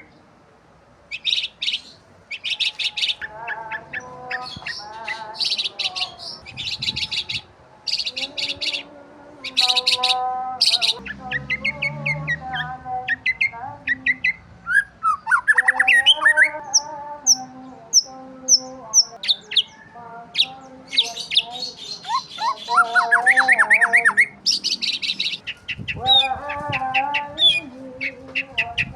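Several birds chirping and calling together. Quick rising chirps come in series, with buzzy high trills and lower, fuller calls overlapping them throughout.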